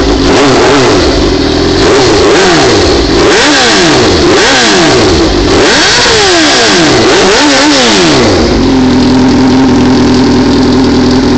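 2004 Suzuki GSX-R600 inline-four with no muffler, its exhaust pipe removed, revved in a string of quick throttle blips, each rising and falling in pitch. About eight seconds in it settles to a steady, loud idle.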